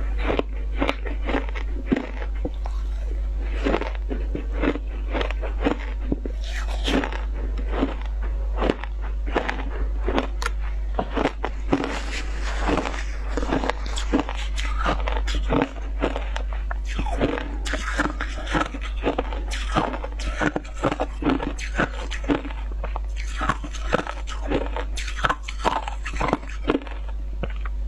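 Close-up crunching and chewing of frozen passion-fruit shaved ice: many quick, crisp bites a few times a second, with a steady low hum underneath.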